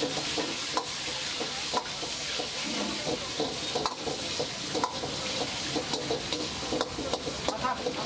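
Chicken pieces sizzling in hot oil in a large kadai while a long metal ladle stirs them, scraping the pan and clicking against it every second or two.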